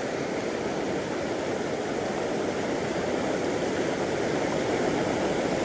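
River water rushing steadily over stones, an even unbroken rush.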